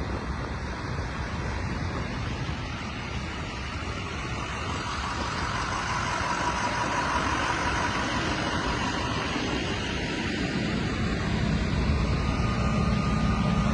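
Car engines running with a steady rumble that grows louder, the low rumble strengthening near the end.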